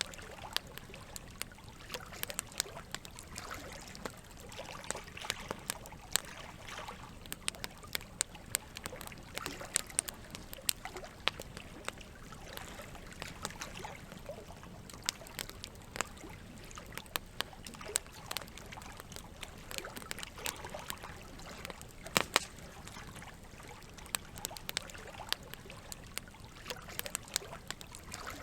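Campfire crackling, with frequent irregular sharp pops and snaps, over a steady trickle of running water.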